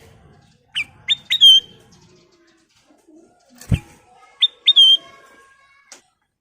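Kutilang emas, a bulbul, giving two short phrases of sharp, clear notes, each note dipping in pitch; a single dull thump falls between the phrases.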